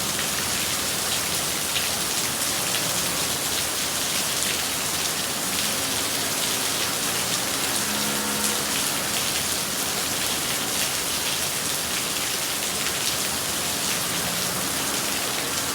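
Steady rain falling, an even hiss dotted with the ticks of individual drops striking a surface.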